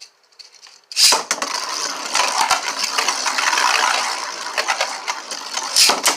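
3D-printed Beyblade spinning tops launched into a stadium about a second in, then spinning and grinding against each other with repeated sharp clashes.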